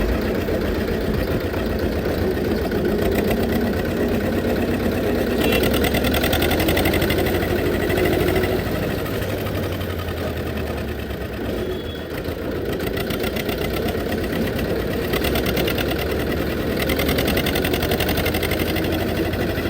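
Old 1969-model Zetor tractor's diesel engine running steadily with a rapid, even beat, its level dipping briefly about twelve seconds in.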